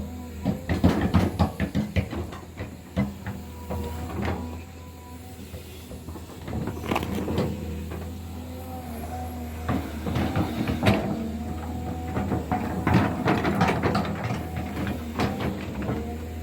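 Heavy earthmoving machine working: a steady low engine hum under repeated metallic clanks and knocks, with a few held squealing tones.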